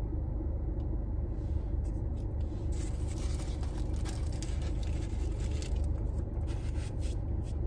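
Low steady rumble of an idling car engine heard from inside the cabin. From about three seconds in it carries the crinkle of a paper sandwich wrapper and the sounds of chewing.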